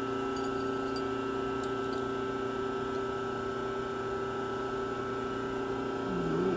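Electric machine motor running at a steady speed: an even hum with a few fixed tones and no cutting sounds.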